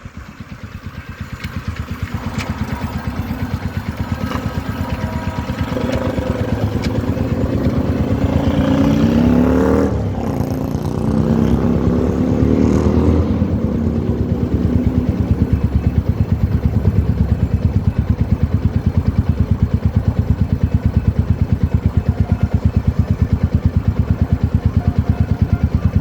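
Motorcycle engine under way, its pitch rising as it accelerates, with a short break about ten seconds in like a gear change. It then pulls up again and settles into a steady cruising beat.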